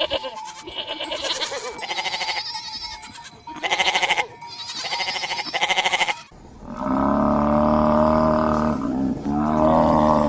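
Animal calls: a run of rasping, repeated cries with two louder ones in the middle, then a sudden change about six seconds in to a long, steady, low call.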